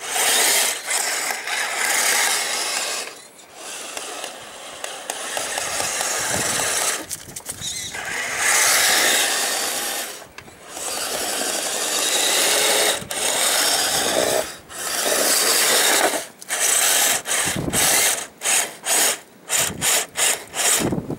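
Radio-controlled snow vehicle with two Traxxas 380 electric motors running under throttle in bursts, with a rattly mechanical drive noise. It stops and starts several times, in quick short bursts near the end.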